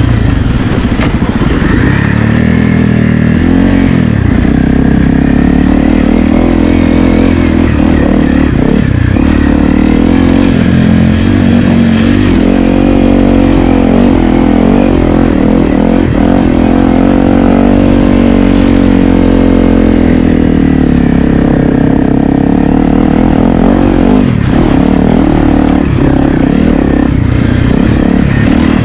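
Honda CRF250L's single-cylinder four-stroke engine being ridden, its pitch rising and falling with the throttle.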